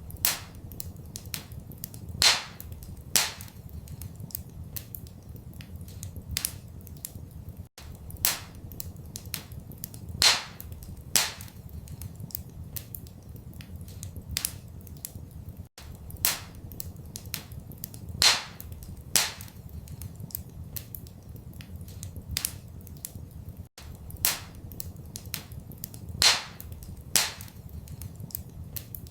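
Wood fire in a fireplace crackling, with frequent sharp pops and snaps over a steady low rumble. It is a short recording looped about every eight seconds.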